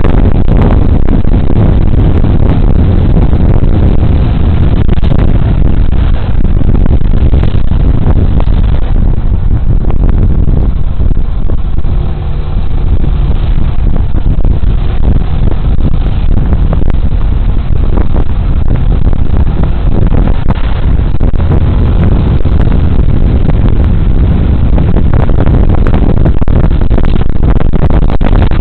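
Steady, loud rush of wind buffeting a body-worn camera's microphone on a moving Suzuki Burgman Street 125 scooter, mixed with the scooter's engine and road noise; it eases briefly about twelve seconds in.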